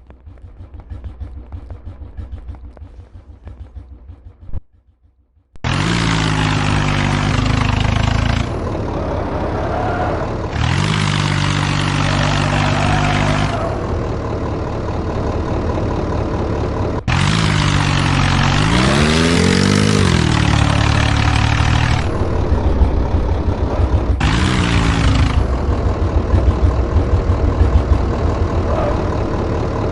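Tractor engine idling low, then, after a brief break about five seconds in, running loud and revving up and down several times.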